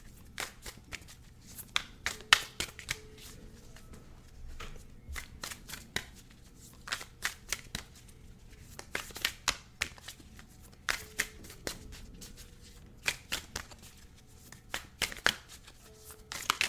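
A deck of Animal Spirit cards being shuffled by hand, the cards snapping and riffling in repeated quick clusters.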